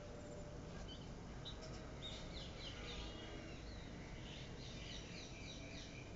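Faint chirping of small birds: short, quickly falling chirps that come in quick runs, over a low steady background hum.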